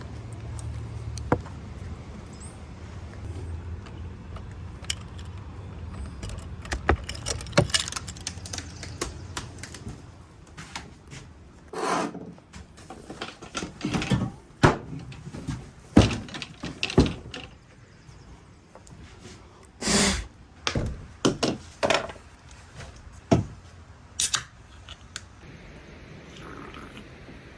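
Irregular knocks, clicks and rustles of objects being handled and set down, over a low steady hum that fades out about ten seconds in.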